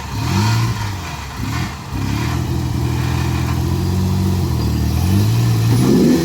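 Car engine running: revs rise and fall a couple of times, then hold steady, and pick up again near the end.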